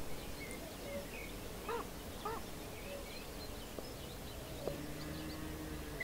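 Outdoor ambience with scattered wild bird calls: two short arched calls half a second apart about two seconds in, and faint high chirps throughout. A faint low steady hum joins near the end.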